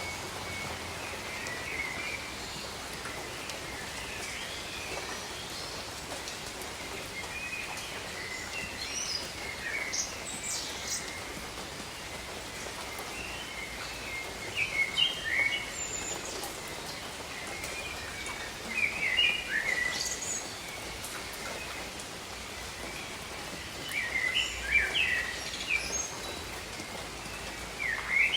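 Steady rain hiss with birds chirping over it in short flurries of quick calls, coming and going several times.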